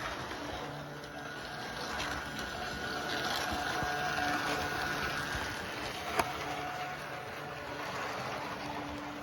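A train arriving, running steadily with thin whining tones over the noise of its running, and one sharp click about six seconds in.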